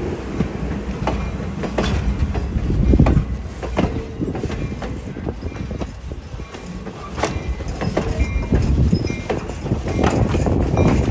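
Train running on the rails: a continuous low rumble with irregular clanks and clicks from the wheels and cars.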